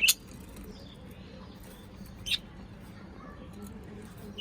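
A small parrot giving short, sharp high squeaks: a loud one at the start, another about halfway through and a last one at the end.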